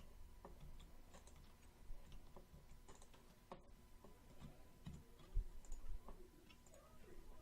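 Faint, irregular small clicks and taps at low level over a steady background hum, with a few soft low thumps about five to six seconds in.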